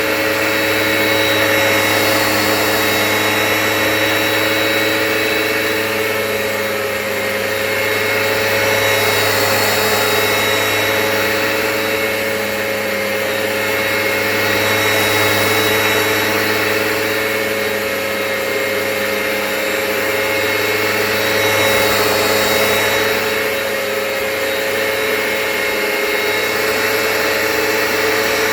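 Hoover Power Path carpet washer running: a steady motor hum and whine from the suction motor and spinning brush roll. The sound swells and eases about every six or seven seconds.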